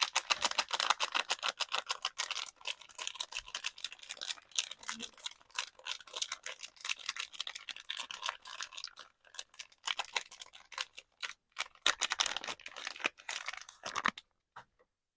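Soap packaging being handled and unwrapped: a dense run of small crackles and clicks, like quick typing, that stops about a second before the end apart from one last click.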